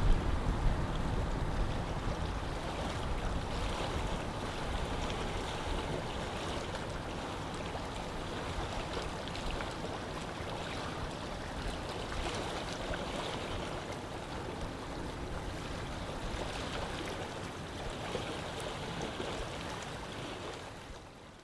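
Steady outdoor rush of moving water and wind, with low wind buffeting on the microphone in the first second or so; it fades out just before the end.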